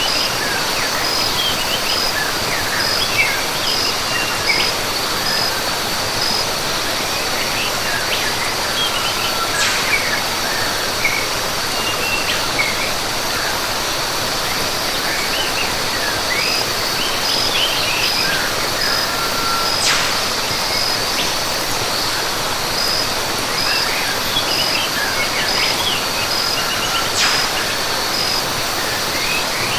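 Rainforest ambience: the steady rush of a waterfall under scattered bird chirps, with an insect's high, evenly pulsing call that stops and starts again about halfway through.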